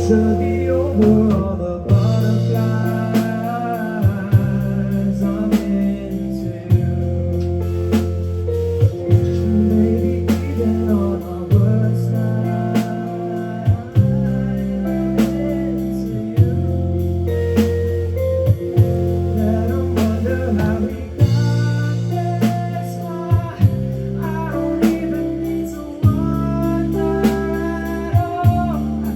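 Live rock band playing an instrumental passage: an electric guitar melody over bass guitar and a drum kit.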